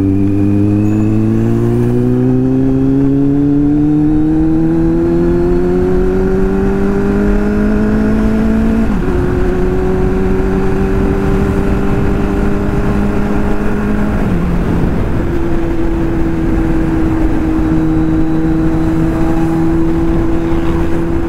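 Kawasaki Z800's inline-four engine accelerating through the gears: the pitch climbs steadily for about nine seconds, drops at an upshift, climbs a little, drops again at a second upshift about fourteen seconds in, then holds steady at cruising speed, over a steady rush of wind and road noise.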